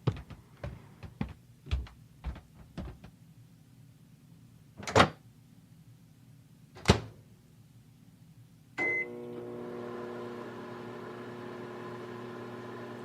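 A run of light taps, then two loud knocks, then a microwave oven beeps once and starts running with a steady hum about nine seconds in, heating the hot water bottle.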